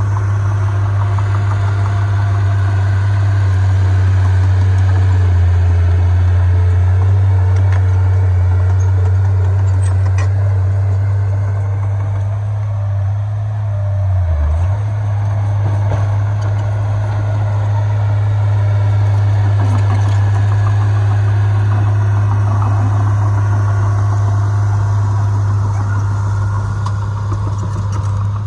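Heavy diesel engine of earth-moving machinery running steadily with a deep, loud drone that dips briefly about halfway through.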